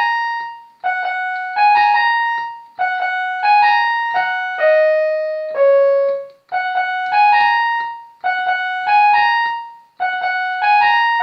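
Electronic keyboard with a piano voice playing a short melody: a three-note rising figure struck again and again about every two seconds, some phrases stepping down to lower notes at the end, each note ringing and fading.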